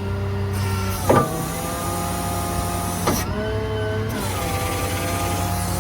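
2016 Ram 5500 service truck running with its PTO-driven hydraulic system engaged: a steady engine hum under a whine of several tones. Sharp clicks about a second in and three seconds in are followed by a change in the whine's pitch, which shifts again about a second later.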